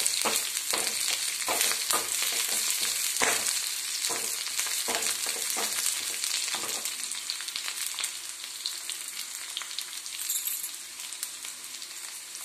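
Sliced onion, garlic and whole green chilies sizzling steadily in hot oil in a kadai. For the first several seconds a spatula scrapes and knocks against the pan as they are stirred; then only the sizzle goes on.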